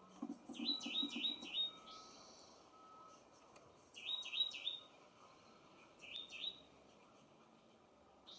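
A small bird calling in three quick runs of short rising chirps, four or five notes in the first run and fewer in the later two.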